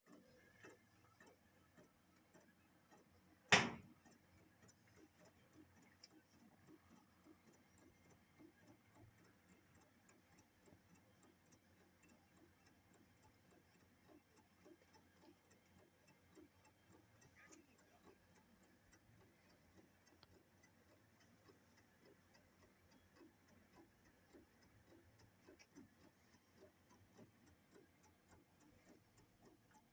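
Faint, even mechanical ticking, a couple of ticks a second, with one sharp loud click about three and a half seconds in and a faint steady high whine behind.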